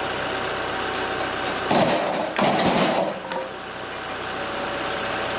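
Kubota MX-6000 tractor's diesel engine running steadily. About two seconds in come two loud, rough crunching bursts, one short and one longer, as the heavy maple log is rolled over against the mill.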